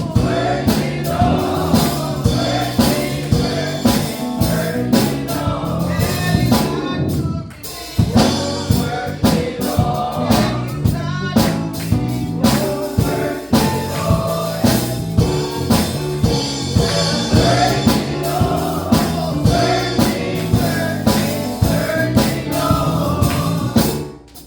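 Gospel choir singing with band accompaniment over a steady beat. The music dips briefly once and ends right at the close.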